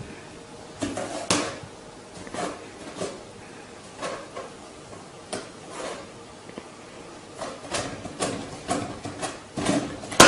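A series of irregular knocks and clicks, one every half second to a second or so, growing busier near the end.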